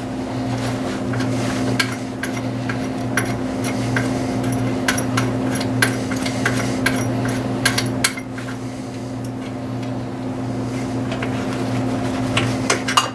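Hand tools clicking and clinking against metal engine parts in irregular sharp ticks a few tenths of a second apart while a bolt is worked loose, thinning out in the second half, over a steady low hum.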